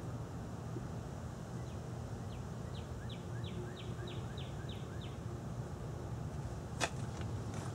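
Honda H23A DOHC VTEC inline-four idling steadily on its stock exhaust manifold. A bird chirps a quick run of about nine short falling notes in the middle, and a single sharp click comes near the end.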